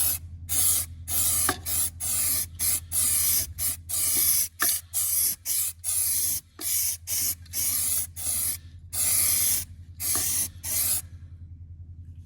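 Aerosol can of dye-penetrant developer sprayed in about fifteen short hissing bursts of varying length, stopping about eleven seconds in, as a developer coat goes onto the cleaned engine-block casting. A steady low hum runs underneath.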